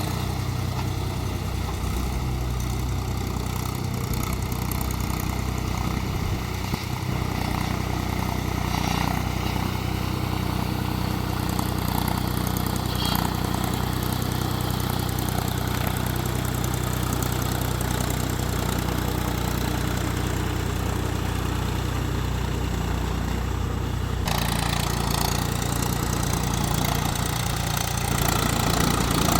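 Mahindra DI 275 tractor's diesel engine running steadily. The sound shifts abruptly about three-quarters of the way through.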